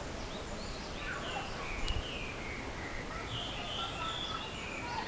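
Narcissus flycatcher singing: a run of short, varied whistled phrases.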